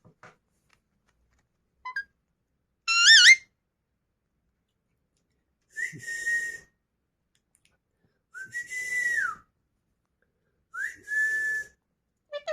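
Pet parrot whistling four times: a loud warbling whistle about three seconds in, then three shorter whistles, the third sliding down at its end.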